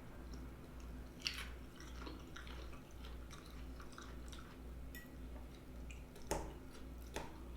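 Quiet close-miked chewing of food in a mukbang, with three sharp clicks along the way, over a low steady hum.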